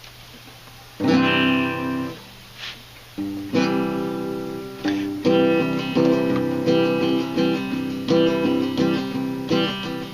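Acoustic guitar strummed as the opening of a song: one chord about a second in, left to ring, then steady strumming from about three seconds in.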